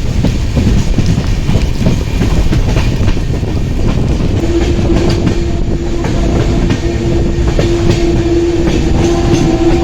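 Passenger train running on the ghat line, heard from on board: a steady running rumble with wheels clattering over rail joints. A steady whining tone joins about halfway through and holds.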